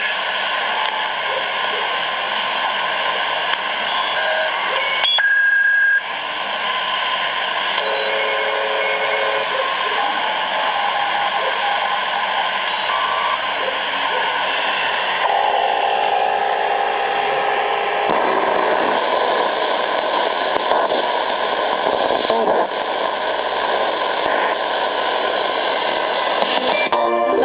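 Static and hiss from a Grundig Yachtboy 80 shortwave receiver's speaker, with whistling carrier tones that come and go every second or so and faint voices under the noise.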